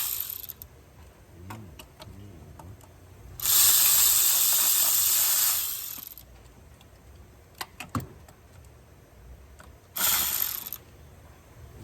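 A ratchet wrench clicking in short runs while intake bolts are worked loose, between two loud bursts of hissing: one about two seconds long, the other under a second near the end. A few sharp clicks come about two-thirds of the way through.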